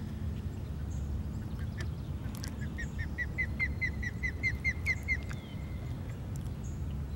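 A bird calling: a rapid run of about a dozen short, high, downward-hooked notes, about five a second, lasting some two and a half seconds, over a steady low rumble.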